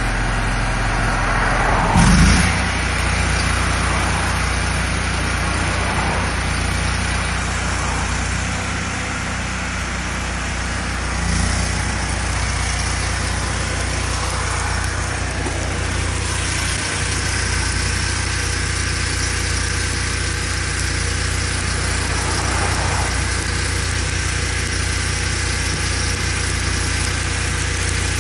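An engine idling steadily, with a short louder noise about two seconds in.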